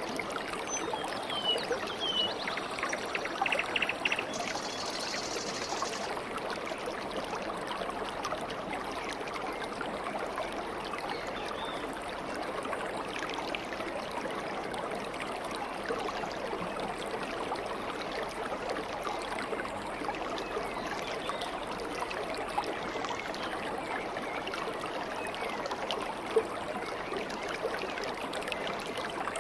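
Steady gurgling flow of a stream of running water, with a few short bird chirps in the first few seconds.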